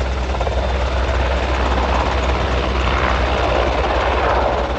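Helicopter flying, its rotor and engines running steadily, swelling a little louder about halfway through.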